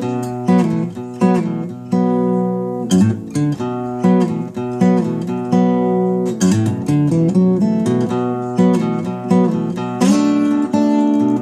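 Acoustic guitar in standard tuning with a capo at the second fret playing an instrumental tune: fingerpicked notes over changing bass notes, with a fuller chord about ten seconds in.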